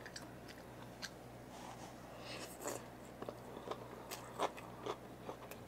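Quiet mouth sounds of someone eating fried vermicelli and boiled pork: soft chewing, with a few short, light clicks scattered through.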